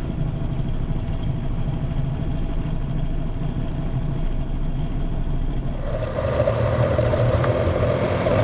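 Motorcycle engine running steadily on the road. About six seconds in, the sound changes and becomes louder and brighter.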